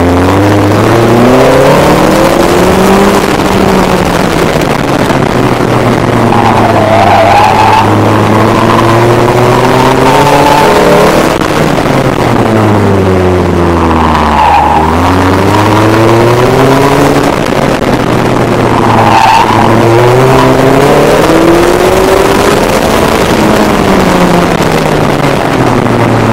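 Ariel Nomad's Honda 2.4-litre four-cylinder engine heard on board while driven hard, its revs rising and falling repeatedly as it accelerates and backs off, with a sharp drop about eleven seconds in. Wind and road noise run underneath.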